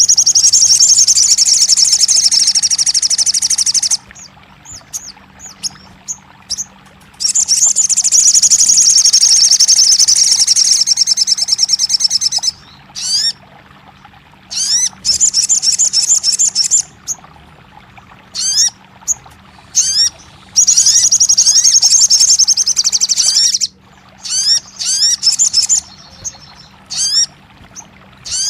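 Sogon birdsong: long, fast, high trills lasting a few seconds each, alternating with runs of short upward-sweeping notes, over a faint steady hum.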